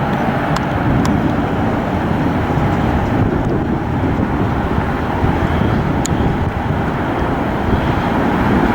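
Jet airliner engine noise: a steady, loud, even rush with a faint whine in it.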